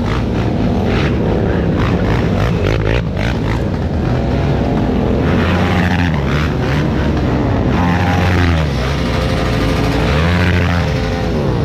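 Several motorcycle engines revving, their pitch rising and falling over and over and overlapping one another.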